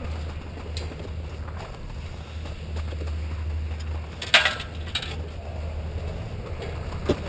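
Skis running over snow with wind rumbling on the GoPro's microphone. About four seconds in comes a loud, harsh scrape lasting about half a second, like a ski edge biting into hard snow, and there is a short sharp click near the end.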